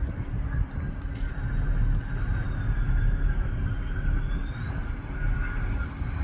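Landing airplane's engines heard as a steady low rumble with a faint high whine that rises slightly about two-thirds of the way through.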